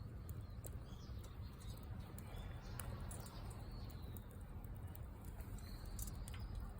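Wood campfire crackling, with many small sharp pops scattered irregularly over a low steady rumble. Birds give a few short chirps in the background.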